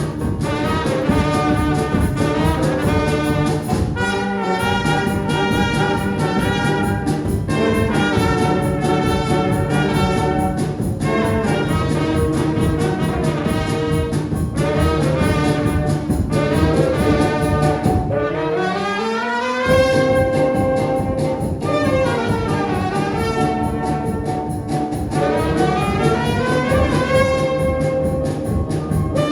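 Children's brass band playing a tune, with trumpets and trombones. About two-thirds of the way through, the bass drops out briefly and the melody climbs in a rising run.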